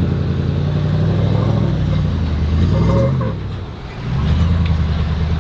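Off-road truck engine running with the revs shifting up and down. It eases off about three and a half seconds in and picks up again shortly after.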